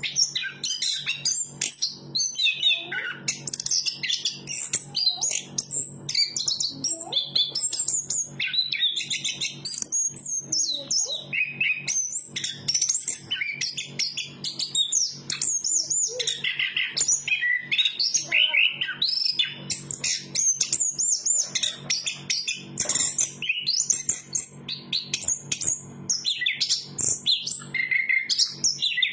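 Chestnut-capped thrush (anis kembang) singing a rapid, unbroken stream of varied high chirps, whistles and trills, with a faint steady low hum underneath.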